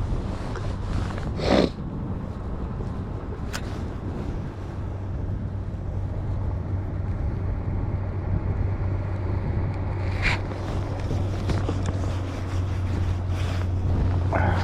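Boat motor running steadily with a low hum, broken by a few short knocks and clicks, the loudest about a second and a half in.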